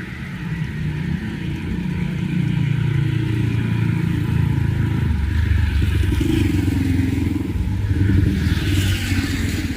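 Motorcycle engine running close by, its pitch dropping and a second lower note coming in about halfway through, with a brief rise in higher-pitched noise near the end.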